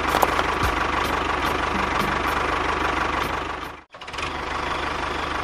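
An engine running steadily with an even, knocking pulse. It cuts out abruptly for a split second about four seconds in, then carries on.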